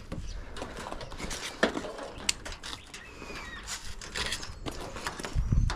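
Dishwasher parts being handled and pulled apart during a teardown: scattered light clicks, knocks and clatter of metal and plastic, with a heavier thump near the end.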